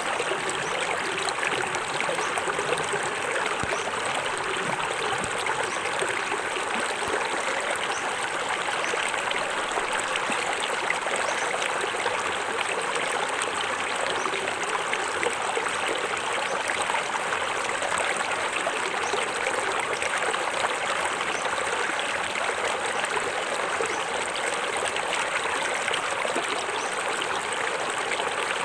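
Small forest waterfall, water splashing and trickling over rocks in a steady, unbroken rush.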